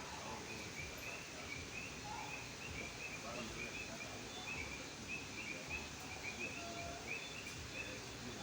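Frogs calling: a steady chorus of short, repeated high notes, several a second, over a soft outdoor hiss.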